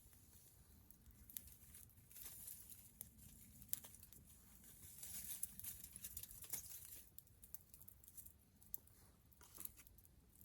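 Wood campfire crackling quietly: soft hissing with sharp pops every second or two.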